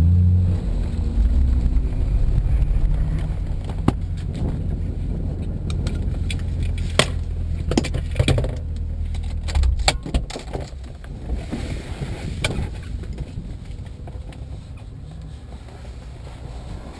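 Car engine running at low speed with a steady low rumble that stops about ten seconds in, with scattered sharp clicks and knocks throughout.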